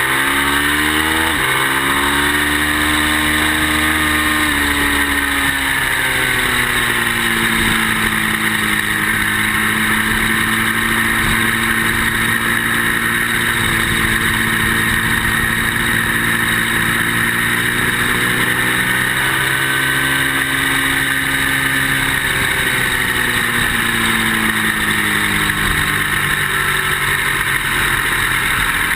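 Ducati motorcycle engine heard onboard at speed, its pitch climbing and falling as the rider accelerates and rolls off through corners, over steady wind rush. The rider says the bike was not running well.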